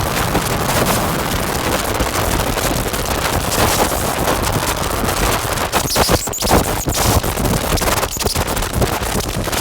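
Harsh noise from a Make Noise modular synthesizer (Strega, Maths, Morphagene) run through Death By Audio Evil Filter and Absolute Destruction fuzz pedals: a dense, crackling, distorted wash of noise that breaks up briefly around six and eight seconds in.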